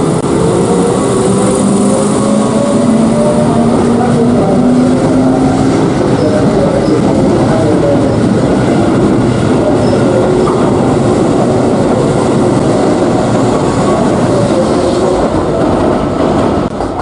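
Electric train running, its motors whining in several tones that slowly shift in pitch over the rumble of the wheels.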